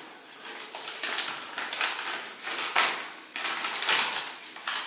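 A plastic packet crinkling and rustling as it is handled, in an irregular run of crackles that is loudest about three and four seconds in.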